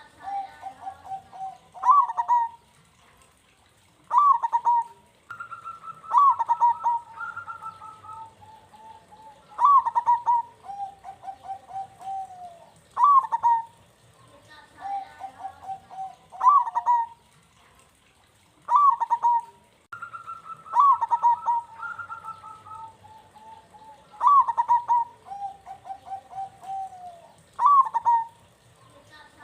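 Zebra dove (perkutut) singing its cooing song over and over: each phrase is one sharp note followed by a quick rolling run of softer coos, repeated about every three to four seconds.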